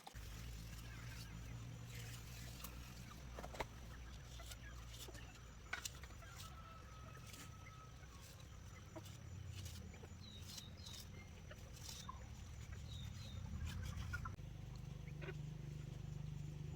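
Faint chicken clucks over a steady low hum, with scattered light clicks and taps.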